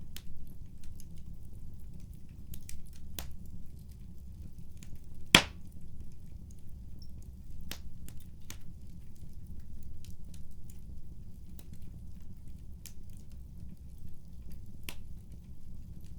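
Wood fire crackling in a fireplace: a steady low rumble of the flames with scattered sharp crackles and one loud pop about five seconds in.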